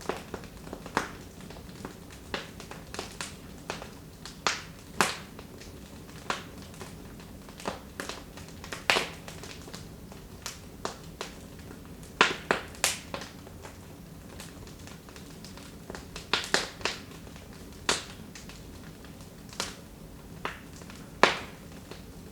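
Wood fire in a fireplace crackling: irregular sharp pops and snaps, a few louder than the rest, over a faint steady hiss as the fire burns down.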